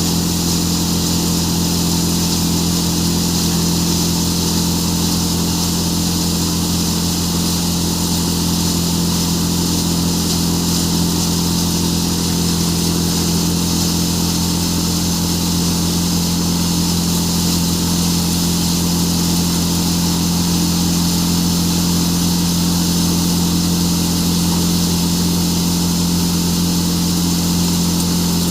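Farmtrac tractor driving a threshing machine while chickpeas are threshed: a loud, steady machine drone with a constant low hum and hiss, unchanging in speed throughout.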